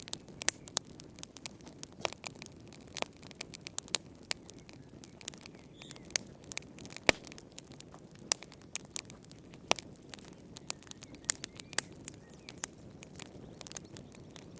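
Wood fire crackling in a fireplace: irregular sharp pops and snaps, several a second and some much louder than others, over a soft steady rush of the flames.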